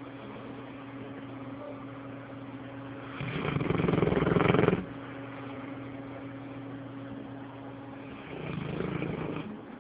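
A sleeping dog snoring: two long rasping snores about five seconds apart, the first louder, over a steady low hum.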